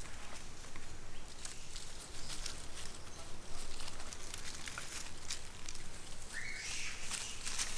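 Outdoor ambience with scattered light rustling and clicking, and one short high-pitched animal call about six and a half seconds in.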